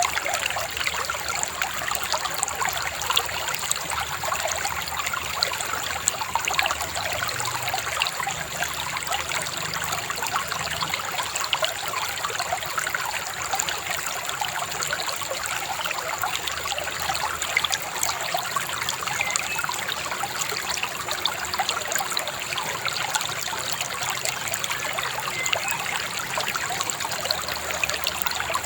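A shallow river babbling and trickling over stones, a steady, even splashing flow.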